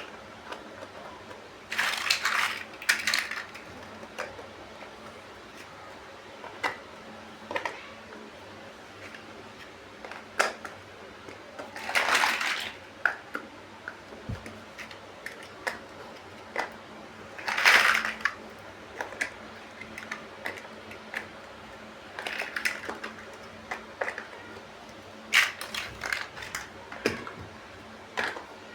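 Plastic building bricks being handled and clicked together: scattered sharp clicks, with several louder bouts of rattling about a second long.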